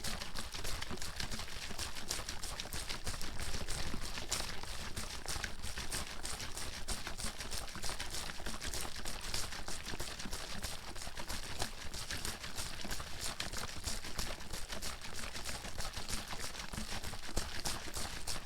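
Water bottle being shaken continuously, the water sloshing and slapping inside it in rapid, unbroken strokes.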